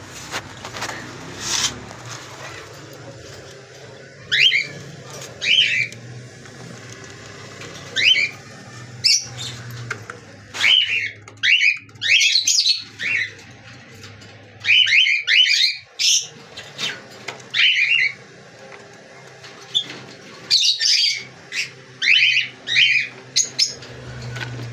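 Pet cockatiels calling: short, shrill chirps and whistles repeated in clusters of two or three, over a steady low hum.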